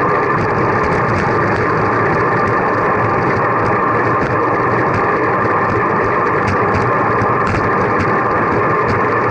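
Steady rushing wind and road noise on a camera carried on a moving bicycle, with faint irregular ticks over it.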